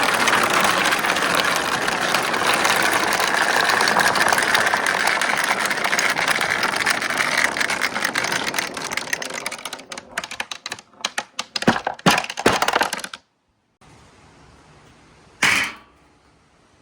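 Many marbles rolling and clattering down a marble run in a dense, steady rattle, which thins out into separate clacks about ten seconds in and then stops abruptly. A single clack comes near the end.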